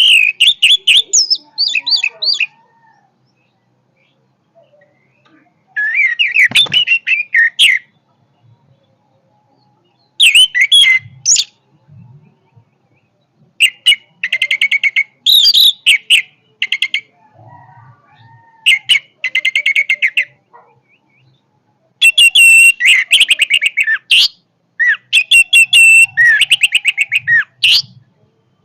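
Orange-headed thrush (anis merah) singing: about seven loud bursts of rapid, quick-changing notes, each lasting one to three seconds, with short pauses between them.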